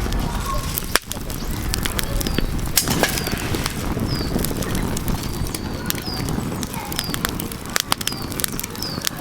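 Wood fire crackling with frequent sharp pops over a low rushing noise, while a small bird gives short falling chirps again and again.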